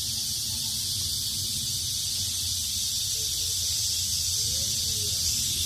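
Cicadas singing in a steady, unbroken high chorus over a low rumble.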